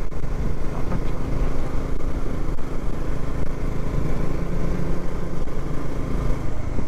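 Bajaj Dominar 400's single-cylinder engine running steadily as the motorcycle cruises along a paved road.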